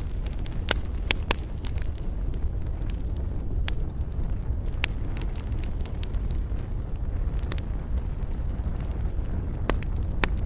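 Wood fire burning in a fireplace, a steady low rumble of flames with scattered sharp crackles and pops.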